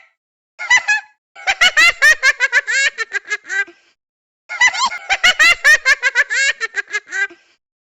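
High-pitched giggling laughter in two quick runs, each lasting a few seconds, with a short break between them.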